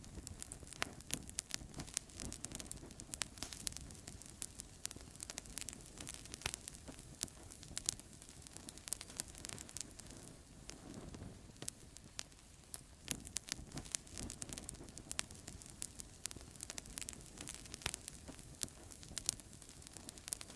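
Outdoor campfire crackling and popping, with many sharp irregular snaps over a steady low hiss of burning.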